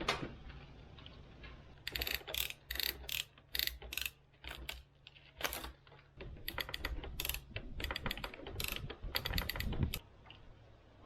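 Poly strapping around a stack of sawmill slabs being tightened with a hand ratchet tool: bursts of rapid ratcheting clicks from about two seconds in, stopping near the end.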